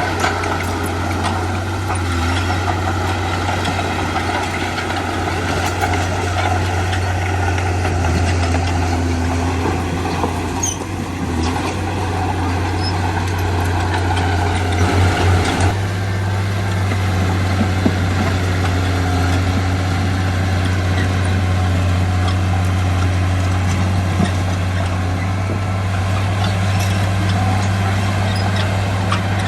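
Heavy diesel construction machinery engine running steadily under work, a constant low drone whose higher tones shift about halfway through, with a few brief knocks in the middle.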